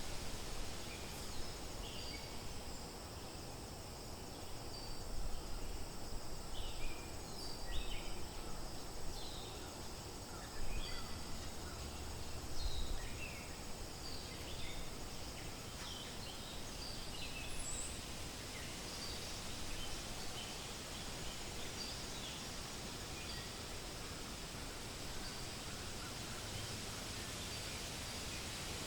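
Steady wind rustling through forest leaves, with many short bird chirps and calls scattered over it, busiest in the first two-thirds and thinning out toward the end.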